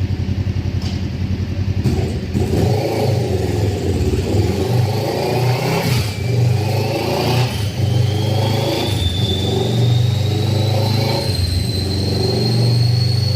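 Kawasaki Ninja 650's parallel-twin engine running on a dyno: steady at first, then louder from about two seconds in as it pulls under load, with a whine that climbs slowly in pitch through the rest.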